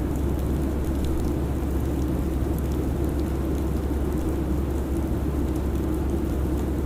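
Steady airliner cabin drone: a constant low rumble with an even rush of air noise above it, and faint scattered ticks.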